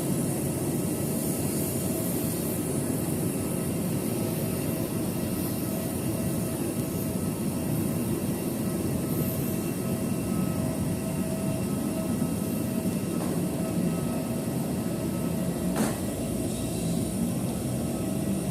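Steady drone of an ATR 72 turboprop airliner heard from inside the cabin, with a constant low rumble and a faint whine, and a single click about sixteen seconds in.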